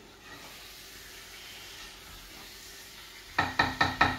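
Chicken liver and hearts frying in masala in a pot, a faint steady sizzle while they are browned (bhuna). Near the end a spatula stirs them and knocks against the pot about five times in quick succession.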